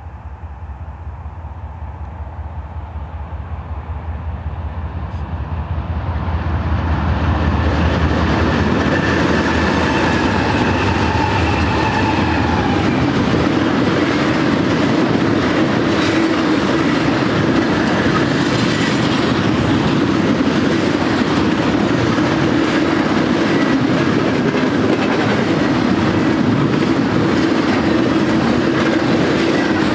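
BNSF GE diesel locomotives drawing closer, their engine drone growing louder over the first several seconds as they pass, followed by a steady rumble of double-stack container cars rolling by with clickety-clack from the wheels.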